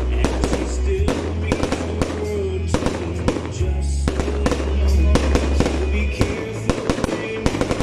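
Fireworks going off in quick succession, many sharp bangs and crackles close together, over loud music with a deep, steady bass line.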